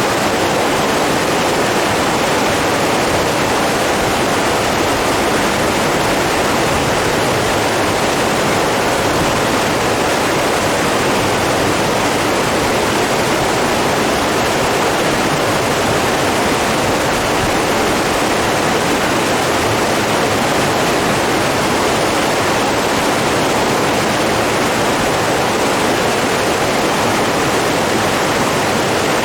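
Steady, even rushing of running water, like a stream or small waterfall, with no breaks or changes.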